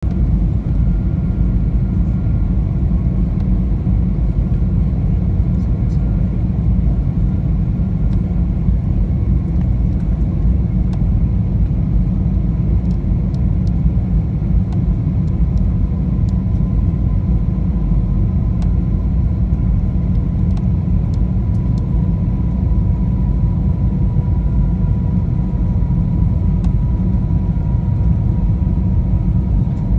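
Airbus A320 airliner in flight: a steady low rumble of engines and airflow, with a faint steady whine above it.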